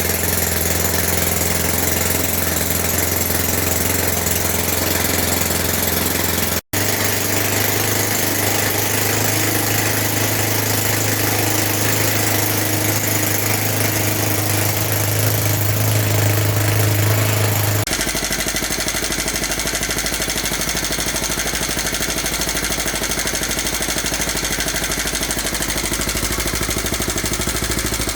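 Small homemade 26 cc four-stroke engine running steadily. The sound breaks off for an instant about seven seconds in, then it runs on. About eighteen seconds in its note changes abruptly to a lower running sound.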